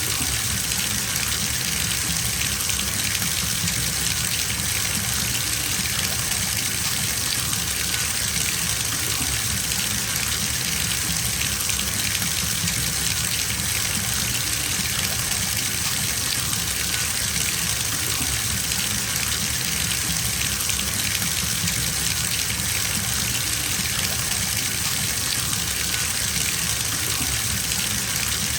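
Bathtub filling from the tap: water gushing steadily into the tub with an even, unchanging hiss.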